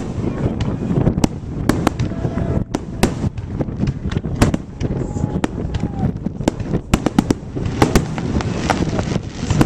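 Aerial fireworks display: many sharp bangs and crackles of bursting shells in quick, irregular succession, over a steady low rumble.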